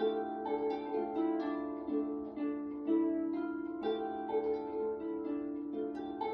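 Instrumental interlude in a folk-style song: several acoustic instruments play a melody over held notes, a new note about every half second, with no singing.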